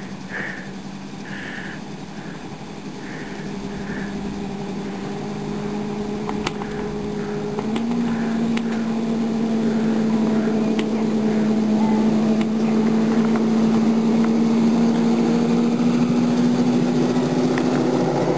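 Small engine of a miniature ride-on train running steadily and growing louder as it draws near, its pitch stepping up slightly about eight seconds in.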